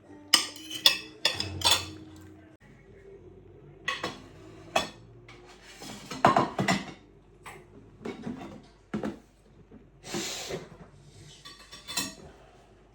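Kitchen clatter: pots, dishes and metal utensils being handled and set down, a string of sharp clinks and knocks, with a short rushing noise about ten seconds in.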